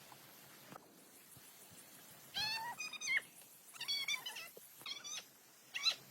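Kitten mewing: about five short, high calls, beginning a little over two seconds in, the last one the loudest.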